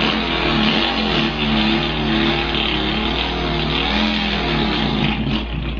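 A man imitating a Volkswagen engine with his voice: a continuous buzzing drone whose pitch wavers up and down like an idling and revving engine, winding down into a mimicked stall near the end.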